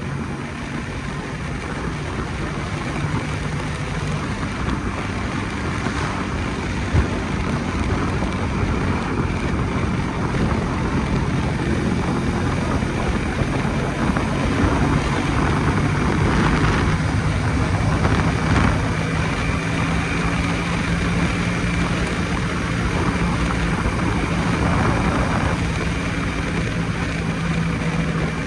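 Jawa 250 type 559 motorcycle's single-cylinder two-stroke engine running steadily while riding, with wind noise on the microphone.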